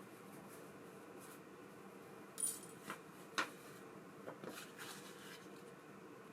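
A handful of light, sharp clicks and taps of small metal parts being handled, the sharpest about three and a half seconds in, over a steady low hum.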